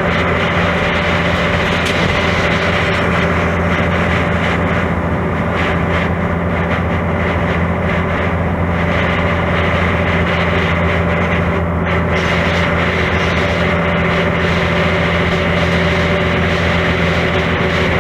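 Mercedes-Benz O-500MA articulated bus with a Bluetec 5 diesel engine and Voith automatic transmission, running steadily. A level, unchanging drone with constant tones over it.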